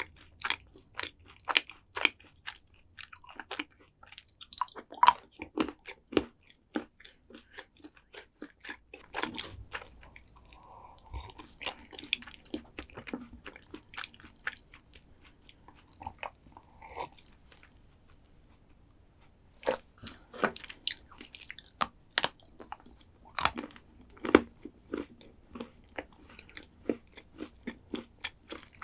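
Close-miked chewing and crunching of chocolate dessert, with many short crisp crunches and a brief lull about two-thirds of the way through.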